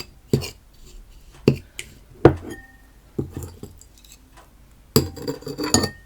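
A spoon knocking and clinking against a bowl while slime ingredients are mixed: about six sharp knocks, a couple of them leaving a short ring.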